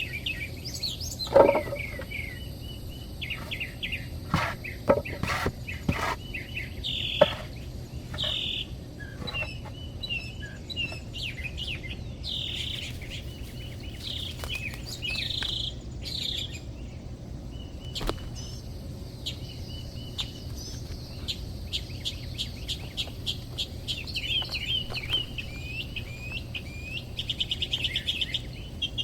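Wild birds chirping and calling, with a rapid trill near the end. A few sharp knocks or snaps cut in during the first several seconds, the loudest about a second and a half in.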